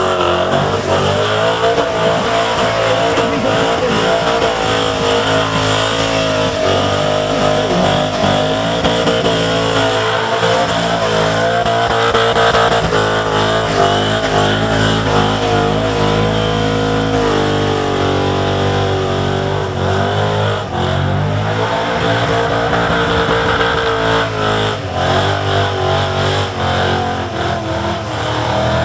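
Holden Commodore burnout car's engine held at high revs with the rear tyres spinning, its pitch dipping and climbing again several times as the driver works the throttle.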